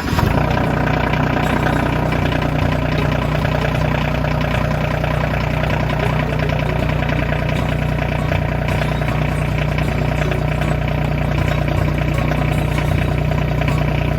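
RK25 compact tractor's diesel engine idling steadily, running after a hydraulic fluid refill so the fresh fluid is drawn into the system and the level drops.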